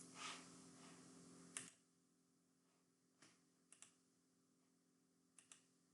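Near silence with a few faint computer keyboard clicks, some in quick pairs. A low background hum cuts off suddenly under two seconds in.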